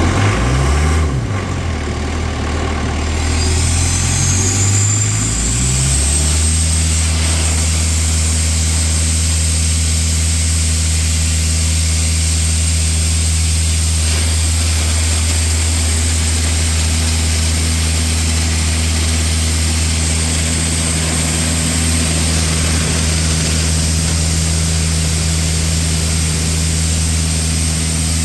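Diesel engine of an Airman PDS 175 portable air compressor running just after starting: its speed wavers for the first few seconds, then settles into a steady, even run.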